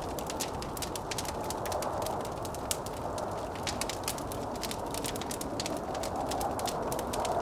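Wood fire crackling with a dense run of sharp pops and snaps, over a steady rush of blizzard wind that swells into a higher moan now and then.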